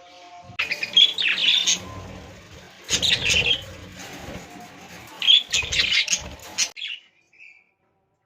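Budgerigars chirping in three loud bursts, with low thuds under each burst. The sound cuts off suddenly a little before the end.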